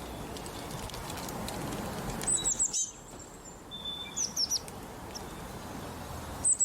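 Bird calls: clusters of short, high, quickly falling chirps about two, four and six and a half seconds in, with one brief steady whistle between them, over a steady outdoor hiss.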